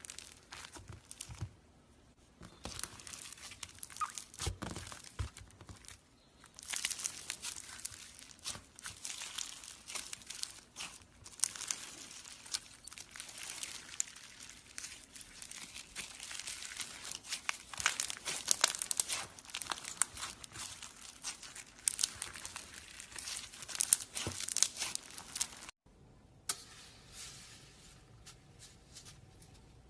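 Slime being squeezed and worked by hand, giving a dense, irregular run of crackling clicks. It cuts off abruptly near the end and is followed by a quieter stretch of softer handling sounds.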